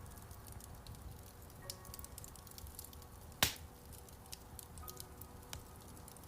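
Wood fire crackling in a fireplace: frequent small snaps, with one loud pop about halfway through. Soft piano notes sound faintly underneath.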